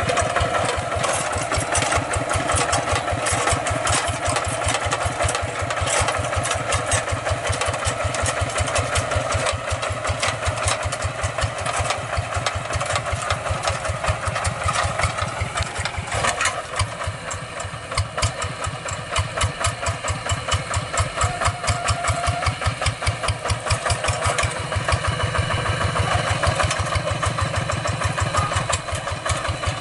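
Two-wheel hand tractor's single-cylinder diesel engine running under way, with an even pulsing firing beat. It dips briefly about halfway through, then returns.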